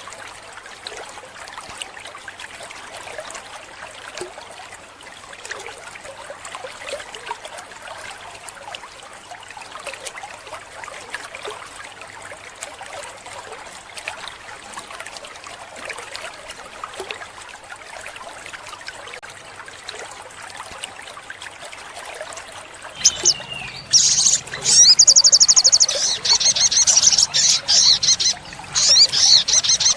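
Water trickling steadily in the background; near the end an olive-backed sunbird breaks in with loud, rapid, high-pitched trilling song in repeated bursts.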